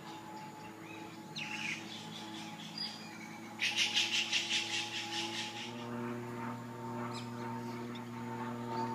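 A bird gives a rapid chattering call of about seven notes a second, lasting some two seconds mid-way, with a few short chirps before it. A steady low hum of several tones runs underneath and grows a little louder near the end.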